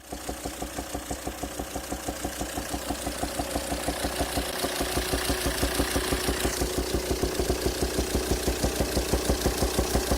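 2007 Volvo XC90 D5 185 bhp five-cylinder diesel idling with a rhythmic popping of about four or five pops a second, growing louder. The popping comes out through the intake; the owner traced it to a sheared exhaust-valve lifter socket on the fifth cylinder, leaving one exhaust valve stuck closed so pressure backfires through the intake valve.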